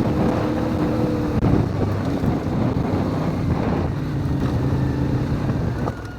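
CFMoto 450MT's parallel-twin engine running under load on a rough dirt trail, with wind noise on the microphone. The engine note drops and wavers about a second and a half in, then settles steady again.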